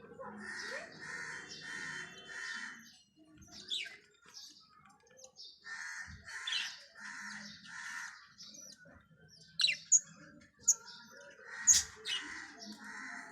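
Budgerigar chicks giving raspy, rhythmic calls in three runs of about two calls a second, with short sharp chirps in between.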